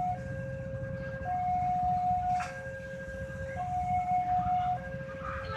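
Railway level-crossing warning alarm sounding, a steady two-tone signal that alternates between a high and a low note about every second and a bit, warning that a train is approaching. A steady low rumble runs underneath, and there is one sharp click about halfway through.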